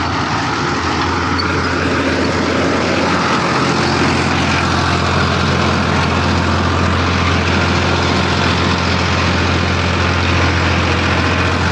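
Farmtrac 60 EPI tractor's diesel engine running steadily under heavy load while pulling a 9-foot Landforce super seeder through the soil, with the seeder's rotor working the ground; the engine holds its RPM without dropping.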